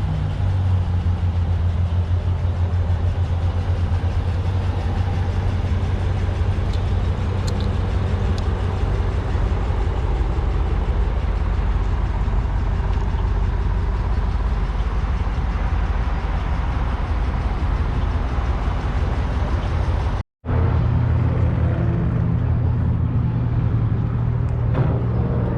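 A car engine running steadily with a low, even tone that holds throughout. The sound cuts out completely for a moment about twenty seconds in.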